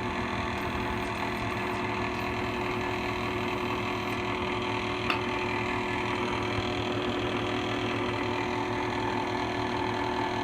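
Drill press running steadily with a 2 3/4 inch hole saw, a constant mechanical hum. There is a single brief tick about five seconds in.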